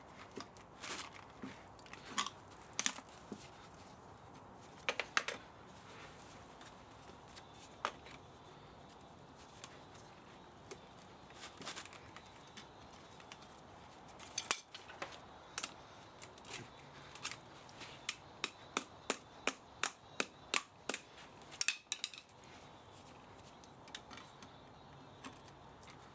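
Hand tools snipping and clicking at a scrapped electric spa motor: scattered sharp clicks, then a quick run of about two or three a second before a short pause near the end.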